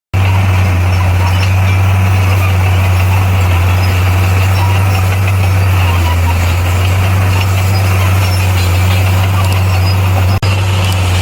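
Bulldozer's diesel engine running steadily under load, a loud constant low drone with clatter and noise above it. It is briefly interrupted near the end.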